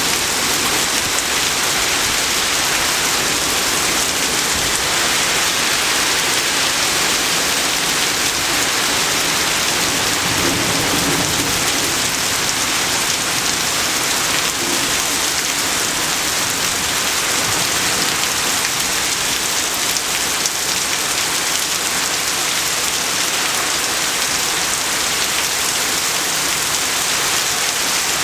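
Heavy rain pouring down steadily in a thunderstorm, a dense even hiss, with a low rumble about ten seconds in.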